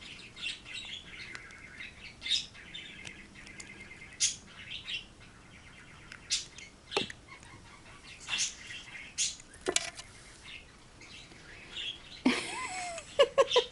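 Small bird chirping on and off with short, sharp high calls, and a louder run of curving calls near the end.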